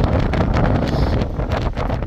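Blizzard wind buffeting the microphone: a loud, continuous low rumble with rapid gusty crackle.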